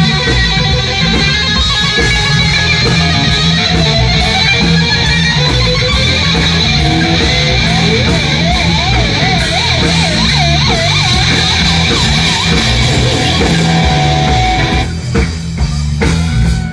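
Live band music led by guitar, with wavering, bending notes about eight to eleven seconds in. The full band sound drops away about fifteen seconds in.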